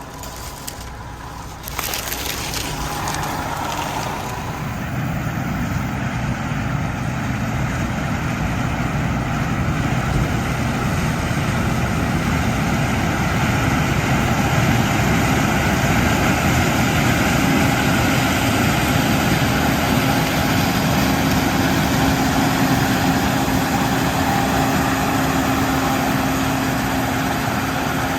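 Case IH 2388 combine harvesting corn with an eight-row header. The machine runs steadily and gets louder about two seconds in, and a steady hum joins it past the halfway mark.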